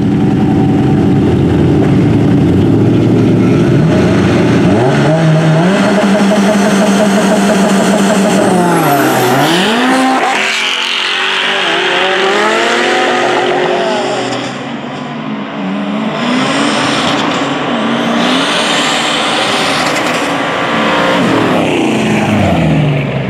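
Performance car engines at full throttle, rising in pitch in steps through gear changes. Around the middle the pitch falls sharply as a car passes, and more revving and passes follow, with another falling pass near the end.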